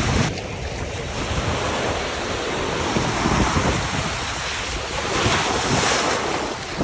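Sea waves washing on the shore, a wave swelling louder about five seconds in, with wind rumbling on the microphone.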